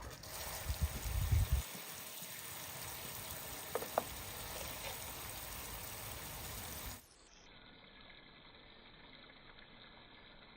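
Water running in a steady hiss, with a few low thumps in the first second and a half and two light ticks around four seconds in. About seven seconds in it cuts suddenly to a quieter, duller steady wash of noise.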